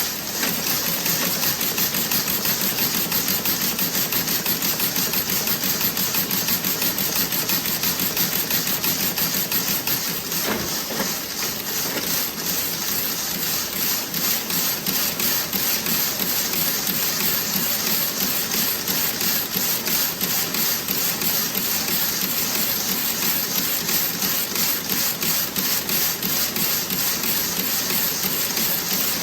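Toe-sock knitting machine running, a fast, even mechanical clatter of repeating clicks, briefly a little softer about ten seconds in.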